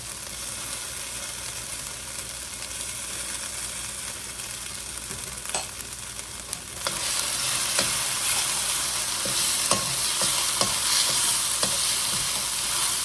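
Onions and ginger-garlic paste sizzling in hot oil in a wok as they are stirred, with scattered scrapes and knocks against the pan. The sizzle gets clearly louder about seven seconds in.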